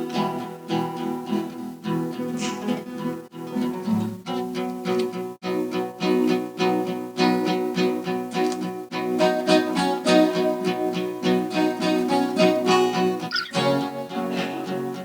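High school string orchestra playing, with notes changing quickly in a lively rhythm and brief breaks between phrases.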